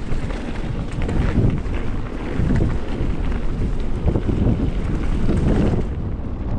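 Wind buffeting an action camera's microphone as a mountain bike rides a forest trail, a steady rumble with tyre noise and scattered knocks and rattles from the bike over bumps.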